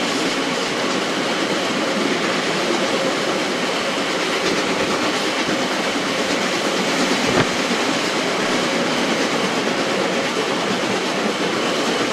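Railway carriage wheels running on the rails at speed, a steady rush of running noise heard from aboard the train, with one sharper knock about seven seconds in.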